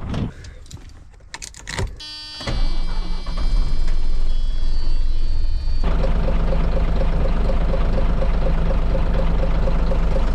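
1989 Scania 93M's nine-litre straight-six diesel being started: a few clicks, then a brief starter-motor whine about two seconds in before the engine catches. It then runs, settling into a steady idle about halfway through.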